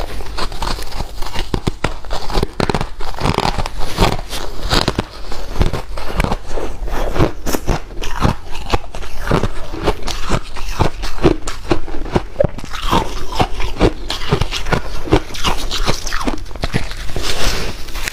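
Close-miked crunching of white ice being bitten and chewed: a dense, continuous run of crisp cracks and crunches.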